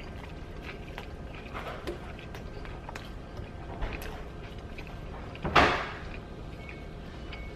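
A person chewing a mouthful of toasted crunch wrap, with faint wet mouth clicks and small crunches, and one short, louder rush of noise about five and a half seconds in.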